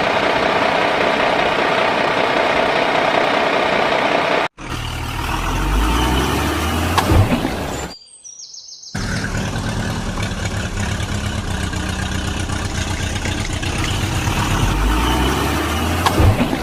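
An engine-like running sound with a steady low pulsing, broken by abrupt cuts: a brief dropout about four and a half seconds in, and a near-silent gap of about a second around eight seconds.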